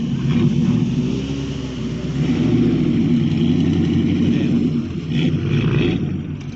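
Exhaust of a TVR Griffith's Rover V8 engine, revving up about two seconds in, holding, then easing off near the end.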